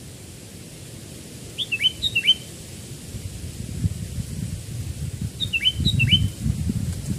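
Sooty-headed bulbul (kutilang) calling: two short, near-identical phrases of quick downward-sweeping whistled notes, about four seconds apart. A low rumbling noise builds in the second half.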